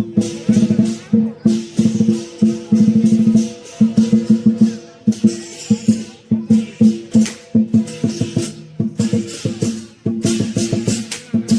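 Lion dance percussion: a big drum beaten in fast, even strokes, with crashing cymbals coming in with it in short runs.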